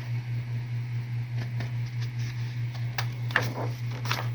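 A steady low hum runs throughout, with a few short, faint rustles or taps of paper handling as the calendar pages are turned, the clearest about three seconds in.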